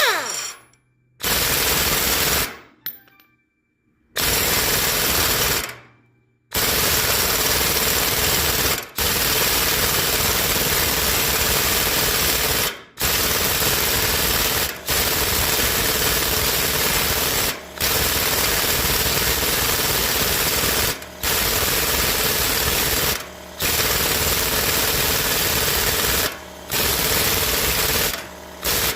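Impact wrench hammering in repeated long bursts of a few seconds each, with short breaks between, as it runs down the bolts and nuts of a disc-brake conversion kit.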